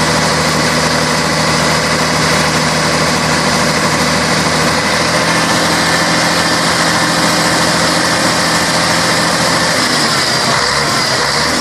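Scania K113 bus's 11-litre straight-six diesel running steadily at low revs, its note shifting slightly about five seconds in and again near the end.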